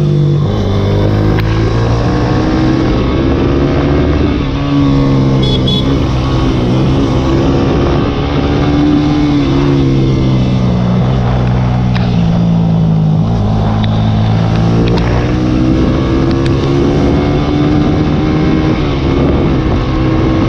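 Small single-cylinder sport motorcycle engine accelerating hard uphill, the pitch climbing and then dropping at each gear change, several times over.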